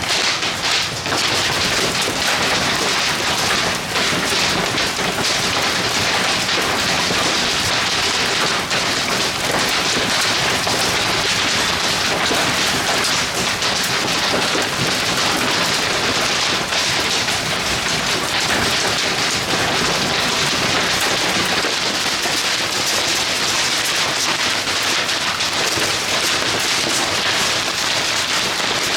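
Heavy hail with rain pelting down in a dense, steady clatter of countless individual stone impacts, from a severe hailstorm.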